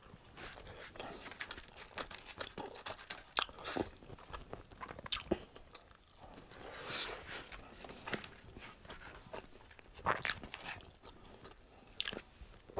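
A person chewing and biting into hot wings and potato wedges, picked up close on a clip-on microphone: irregular wet mouth noises with sharp clicks every second or so.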